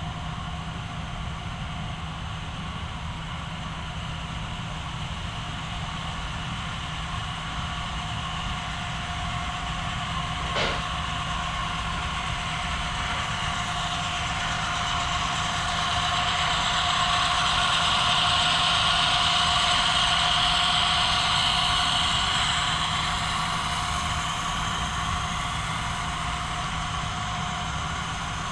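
HO scale model train running past on the layout, with a steady motor and wheel hum. It grows louder past the middle and eases off near the end. There is a single click about a third of the way in.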